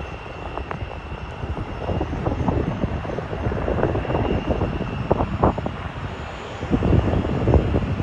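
Airliner engines running, with gusty wind buffeting the microphone in uneven rumbles; a faint steady whine sits above the noise.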